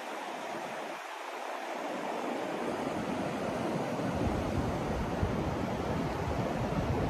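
Continuous rushing noise from a sleep-aid noise track, heavier in the low end than a pure hiss. Its deepest rumble drops away briefly near the start and swells back up about four seconds in.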